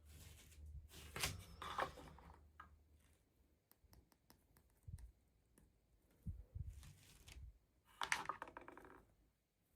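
Faint handling sounds of an unboxing: scattered light clicks, with two short spells of crinkling and rustling, one near the start and one near the end.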